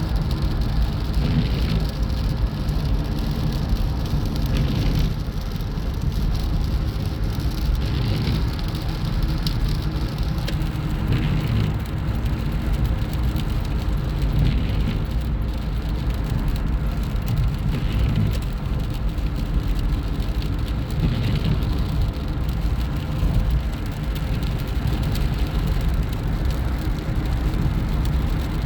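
Steady rumble and road noise of a moving car, even throughout with no distinct events.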